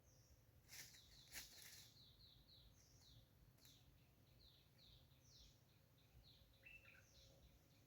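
A small bird calling faintly over and over in short, high chirps that each fall in pitch, about two a second. A couple of brief rustling knocks come about a second in.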